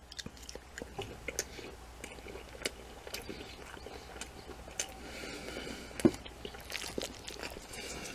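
A person chewing Chinese takeout food, with many small wet clicks and smacks and one sharper click about six seconds in.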